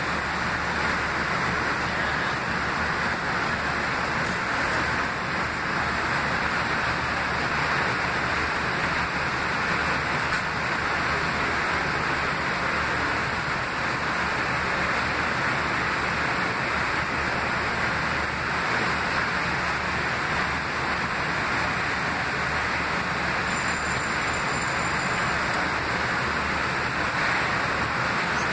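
Steady hiss and hum of a Metro-North M3 electric railcar standing at the platform with its equipment running. A faint high tone sounds briefly about three-quarters of the way through.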